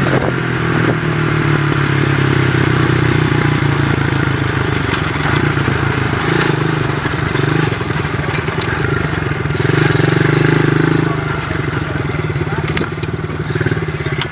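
Dirt bike engine running as the bike is ridden; it eases off about eleven seconds in and settles to a lower, choppier beat.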